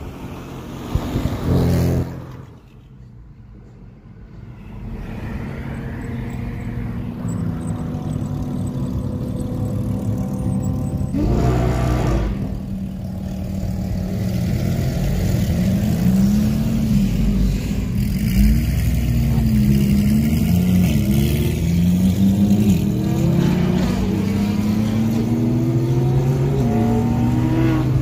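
Car engines running in traffic, growing louder after a quiet stretch early on. In the second half, repeated rises and falls in pitch as the cars rev and accelerate.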